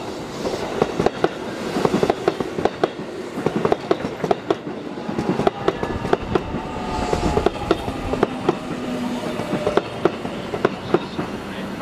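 Sanyo 5000 series electric train running past along the platform, its wheels clacking sharply and irregularly over rail joints and points. A few faint falling tones come in around the middle.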